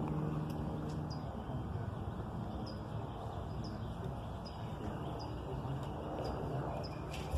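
A small bird chirping: short, high, falling chirps repeated about once a second, over a steady low outdoor rumble. A low steady hum fades out about a second in.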